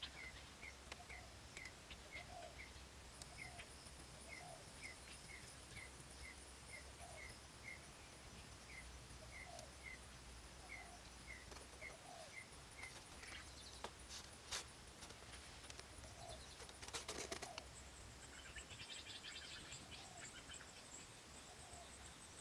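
Faint outdoor ambience: a bird chirping repeatedly, about two short chirps a second, over a high, steady insect hum. A few sharp knocks come about two-thirds of the way through.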